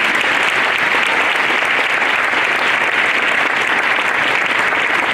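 Audience in a hall applauding, a steady, dense clapping.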